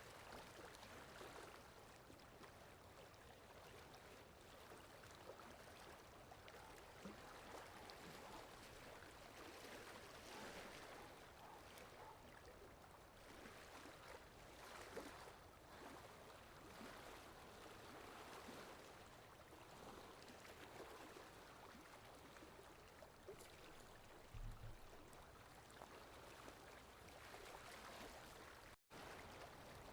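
Faint, steady flowing-water sound effect like a running stream, cutting out for a split second near the end.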